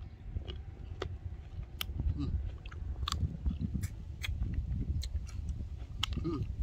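A person chewing a mouthful of crisp green apple, with irregular sharp crunches every half second to a second, over a steady low rumble.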